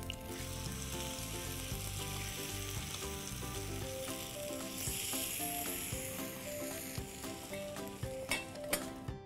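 Unniyappam batter balls sizzling as they fry in ghee in an appe pan, while a spoon turns them over. A couple of sharp metallic clinks near the end as a steel lid is handled over the pan.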